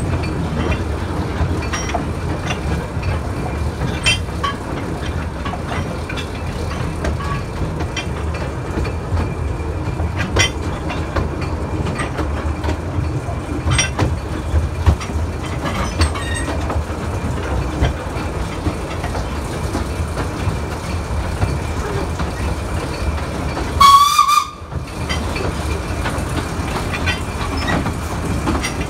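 A 2 ft gauge train running, heard from an open carriage behind a Hudson diesel locomotive: a steady low rumble with scattered clicks and rattles of the wheels on the rails. Near the end the locomotive gives one short horn blast.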